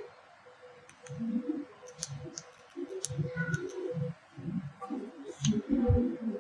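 A handful of sharp clicks and knocks from the metal and plastic parts of an electric iron being handled and fitted together, over low rubbing and handling noise and a faint steady hum.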